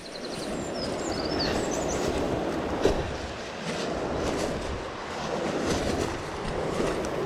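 Mountain stream water rushing steadily over rocks, with a few short bird chirps near the start.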